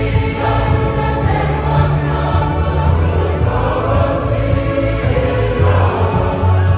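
A church choir singing a hymn in many voices over steady low accompanying notes.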